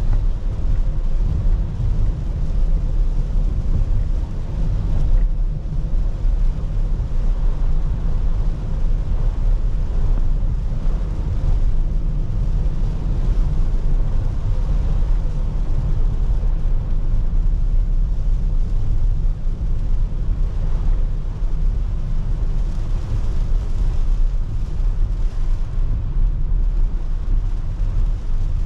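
Car driving in the rain, heard from inside the cabin: a steady low rumble of engine and road noise with an even hiss of rain and tyres on the wet road.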